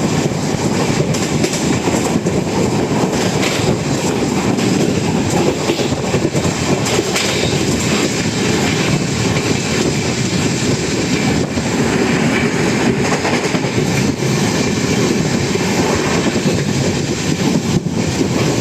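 Express passenger train running at about 110 km/h: a steady, dense rumble of wheels on rails with clatter over the rail joints.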